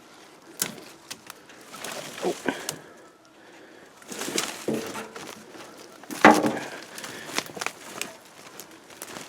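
Footsteps pushing through thick dry brush: twigs snapping and branches rustling in a string of sharp cracks, the loudest about six seconds in.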